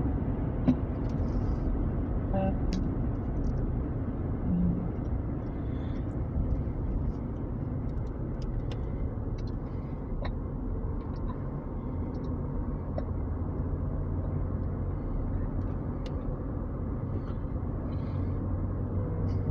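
Steady road and engine noise heard inside a moving car's cabin, a low even rumble with a few faint small clicks.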